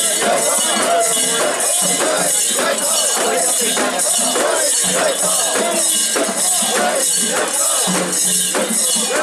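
Mikoshi bearers chanting together in rhythm while the portable shrine's metal fittings jingle on each beat, about twice a second.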